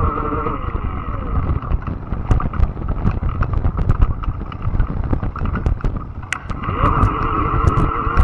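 Fat-tire electric bike being ridden: the electric motor's steady whine cuts out about a second in, leaving many sharp clicks and rattles over a low rumble of tyres and wind, then the motor spins back up with a rising whine near the end.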